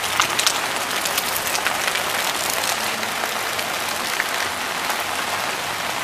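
Heavy rain falling onto a flooded street: a steady, dense hiss full of many small, sharp drop impacts.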